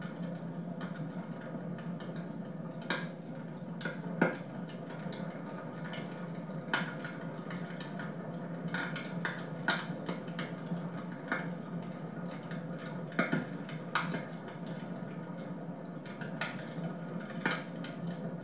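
Wood fire in a fireplace crackling, with irregular sharp pops and snaps over a steady low hum.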